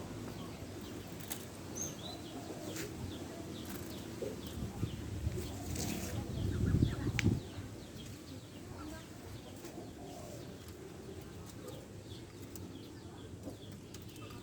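Birds fluttering their wings, with a louder flurry of flapping about six to seven seconds in, and faint short chirps.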